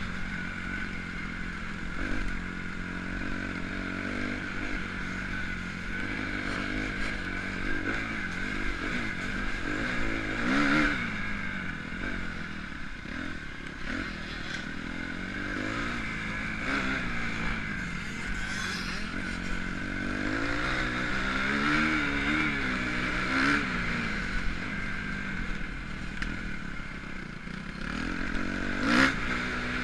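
Motocross bike engine running for the whole half-minute, its pitch rising and falling repeatedly as the throttle opens and closes, with a few sharper loud peaks about 11, 23 and 29 seconds in.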